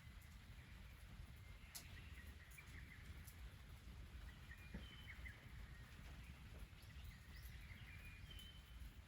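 Faint birds calling: scattered short chirps and thin level whistles over a low steady background hum, with a few faint sharp clicks.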